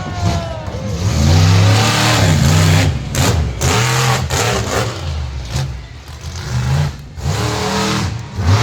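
Monster truck engine revving hard again and again, its pitch climbing and falling with each blip of the throttle.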